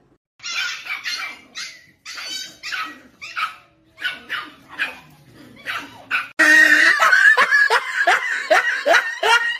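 A dog barking and yipping in a run of short calls. About six seconds in, a louder passage starts abruptly, with quick falling whines over a steady tone.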